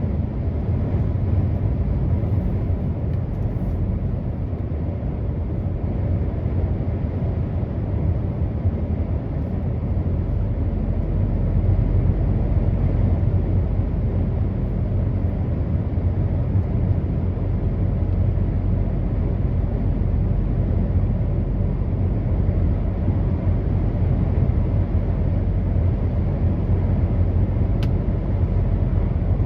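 Truck running on the road: a steady low drone of engine and road noise that gets slightly heavier about ten seconds in.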